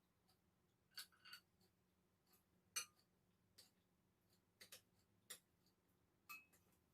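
Faint eating sounds over near-quiet room tone: about eight short sharp clicks and smacks of mouth and utensils, scattered irregularly, the loudest about three seconds in.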